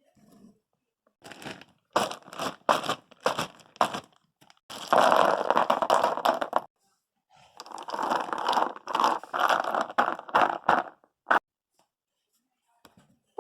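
Crinkling, crunching handling noise with many short clicks, in two longer crackly stretches through the middle.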